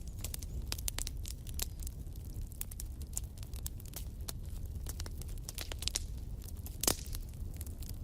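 Wood fire in a fireplace crackling: irregular sharp pops and snaps over a low steady rumble, with one louder pop near the end.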